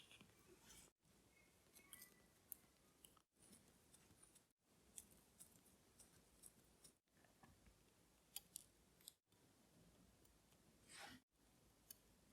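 Faint, sparse clicks and ticks of small metal watchmaker's tools on watch parts, with near silence between them. The room tone drops out abruptly several times.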